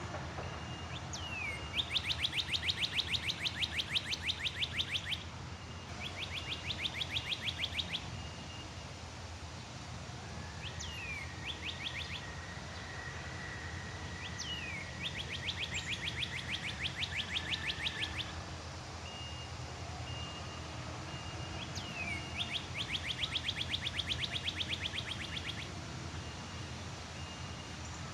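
Backyard songbird calling: a short falling whistle followed by a fast rattling trill lasting a few seconds, repeated four times with pauses between, over a steady low outdoor background rumble.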